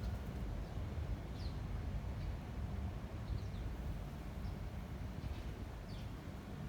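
Wind rumbling steadily at the low end, with a few short, high bird chirps scattered through it.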